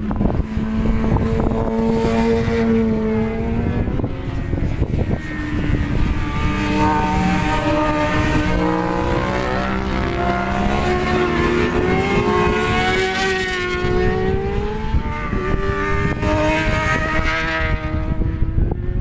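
Racing motorcycle engines passing on a circuit, their notes rising as they rev up through the gears and falling away, with more than one bike heard at once at times. Wind rumbles on the microphone underneath.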